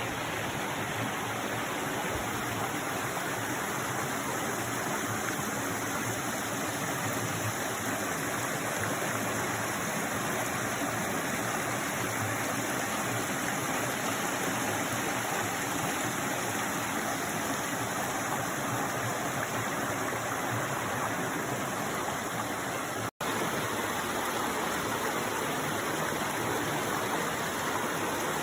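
Mountain stream rushing steadily over rocks, an even water noise, with a split-second cut-out of the sound about two-thirds of the way through.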